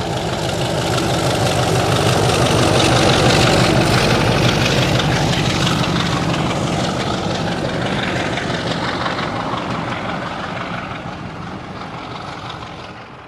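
Diesel locomotive engine running, swelling louder over the first few seconds and then slowly fading away, as a locomotive passing by would.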